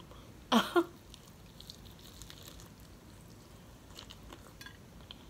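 Close-up eating sounds: faint bite and chewing clicks as a piece of lemon pepper fried shrimp goes into the mouth near the end. About half a second in, a brief voice sound from the eater is the loudest thing.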